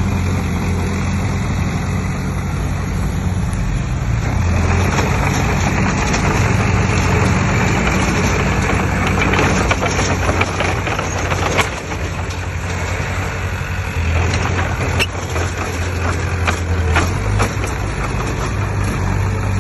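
Diesel engine of a heavy earthmoving machine running steadily, louder for several seconds in the middle, with a few sharp metallic knocks in the second half.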